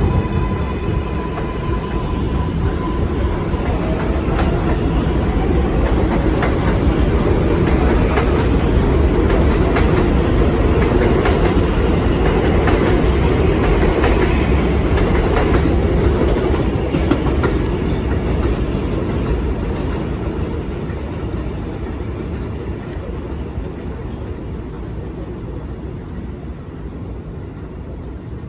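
New York City subway train running past on the rails, wheels clicking over rail joints. The rumble grows louder to a peak mid-way, then fades.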